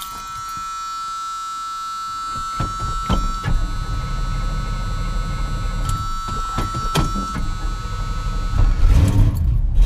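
A 1979 Camaro's small-block Chevy V8 being cranked on the starter for a cold start after sitting three to four weeks. The engine catches and runs louder near the end. A steady electric warning buzzer sounds over the first few seconds and again briefly, along with a few clicks.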